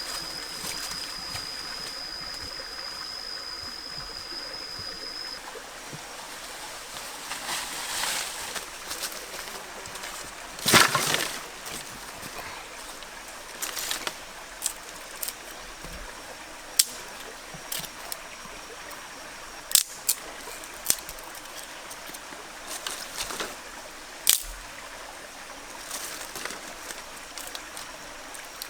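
Water trickling and sloshing, with scattered sharp clicks and knocks and one louder splash-like burst about eleven seconds in. A thin steady high whine runs for the first five seconds, then stops.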